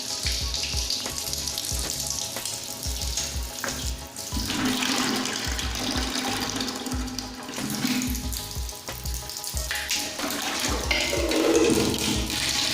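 Running, splashing water over background music with a steady beat.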